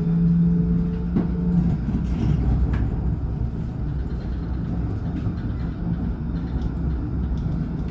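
Alstom NGT8D low-floor tram running along the track. A steady electric drive hum fades out about a second and a half in, leaving an even rumble of the wheels on the rails.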